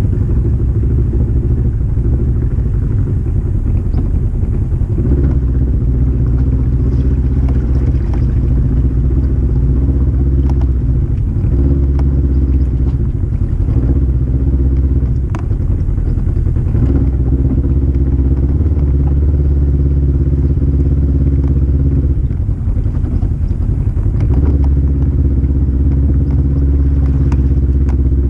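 Polaris RZR 1000 side-by-side's engine running while driving, its note changing with the throttle several times, with scattered knocks and clatter from the machine over rough ground.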